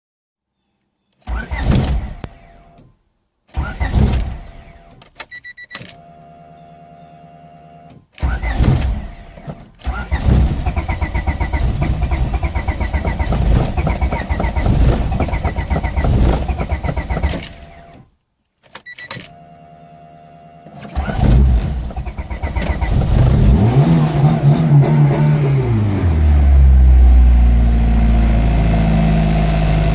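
1993 Honda Civic's D15B7 1.5-litre four-cylinder engine being cranked by the starter for about ten seconds without starting. After a pause it is cranked again, catches, revs up and settles into a steady idle near the end. This is the hard-starting, stalling fault the car suffers from.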